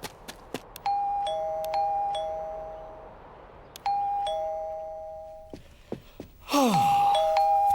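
Two-tone doorbell chime, a high note followed by a lower one, each ringing and fading, pressed three times: about a second in, about four seconds in, and near the end. Just before the third chime comes a loud falling sweep.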